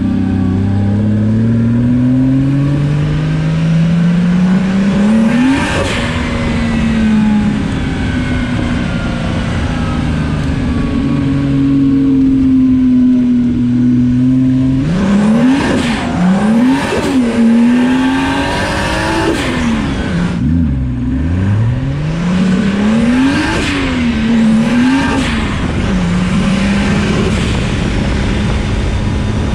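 Drift car engine pulling hard as it climbs in revs for about five seconds, then holding a steady note. From about halfway the revs swing quickly up and down several times under tyre squeal as the car drifts, with one deep drop near two-thirds of the way through, before settling back to a steady note near the end.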